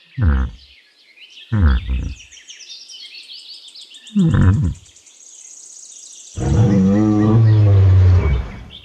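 Bull bellowing: three short low calls, each falling in pitch, then one long loud bellow about six and a half seconds in that lasts about two seconds.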